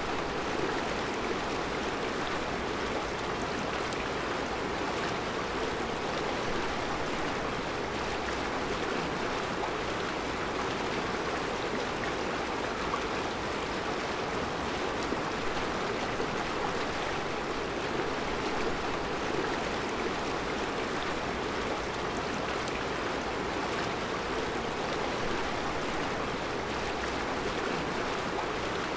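Mountain river flowing over round rocks in a rocky bed: a steady, unbroken rush of water.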